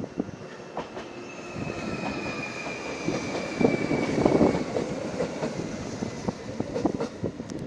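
JR Shikoku 7200 series electric commuter train pulling into a station and passing close by as it slows. Its wheels clack over the rail joints, the rumble is loudest as the cars go past about four seconds in, and a high whine slowly falls in pitch over the first few seconds.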